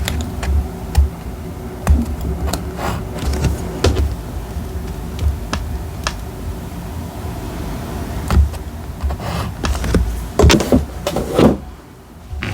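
Hands working with paper and stationery on a desk: scattered light taps and clicks, with a burst of louder paper rustling and scraping near the end, over a steady low hum.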